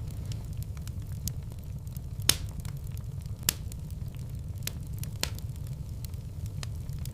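Wood fire burning in a fireplace: a steady low rumble with scattered sharp crackles and pops. Two louder pops come a little over two seconds in and about three and a half seconds in.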